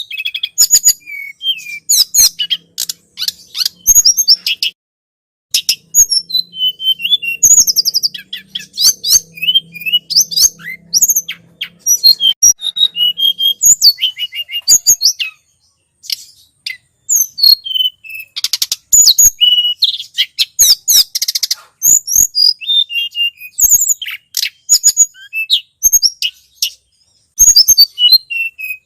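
Tledekan gunung songbird singing: rapid bursts of high, sharp chirps and short trills, one after another with brief pauses between phrases.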